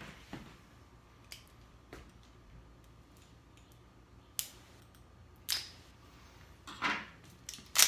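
A few short, sharp clicks and taps at irregular intervals, about seven in all, the loudest near the end: small handling noises of objects being picked up and set down.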